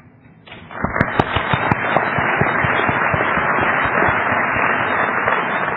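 Audience applauding, starting under a second in and going on steadily.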